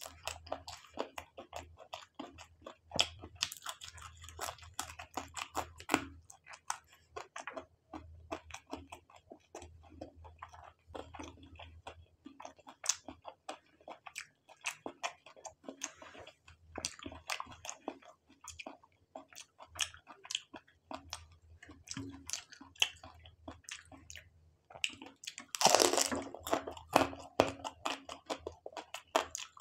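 Close-up chewing and crunching of a fried prawn with noodles: many small, irregular crisp clicks of biting and chewing, with a louder, longer crunch a few seconds before the end.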